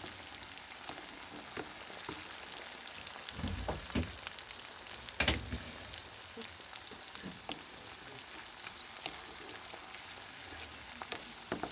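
Sliced onions and tomatoes sizzling and crackling in hot oil in a frying pan as they are stirred with a wooden spatula, with a few louder knocks of the spatula against the pan around four and five seconds in.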